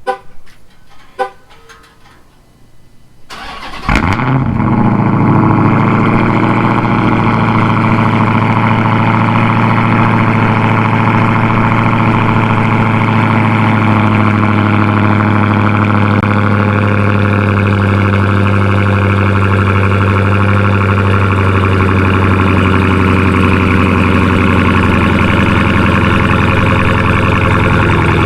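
A few clicks, then a Dodge Hellcat's supercharged 6.2-litre Hemi V8 cranks briefly and catches about four seconds in. It settles into a steady, loud cold-start idle through the exhaust with the mid-pipe (resonator) section deleted and the stock rear mufflers.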